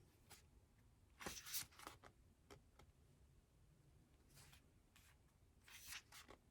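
Faint rustling of paper and card as a K-pop album's photobook pages and inserts are handled and turned, in two short bursts about a second in and near the end, with a few light clicks between.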